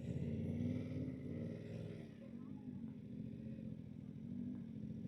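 Yamaha R7's 689 cc parallel-twin engine idling at a standstill.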